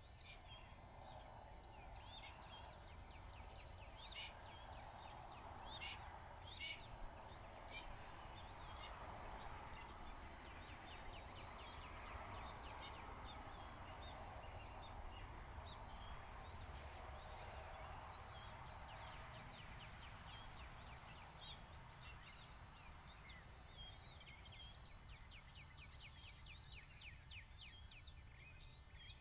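Birds calling: a long run of short, high chirps, with a short buzzy trill twice, over a faint, steady low rumble.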